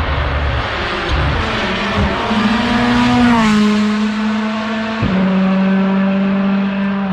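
Rally car passing at speed. Its engine runs at a high, steady note, then drops in pitch as it goes by about three and a half seconds in. A sharp crack comes about five seconds in, after which the engine holds a steady note again.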